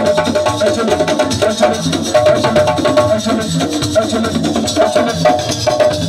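Live siko band music: fast, driving drumming with shakers and a knocking wood-block-like beat, under a repeating pitched melodic line.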